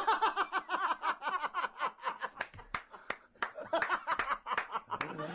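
High-pitched cackling laughter in a fast, rhythmic run of short bursts, about seven a second, easing off briefly around three seconds in and then starting up again.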